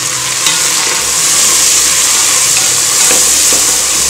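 Tomatoes, onions and chillies sizzling steadily in hot oil in an aluminium pot while a wooden spatula stirs them, with a few light knocks of the spatula against the pot.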